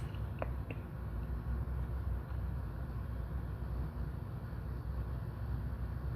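A steady low rumble, with a few faint clicks in the first second.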